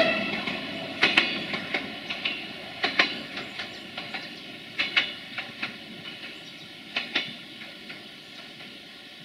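Siemens Desiro VT642 diesel multiple unit running away along the track: its wheels clack over rail joints in close pairs about every two seconds, over a steady engine hum, growing fainter.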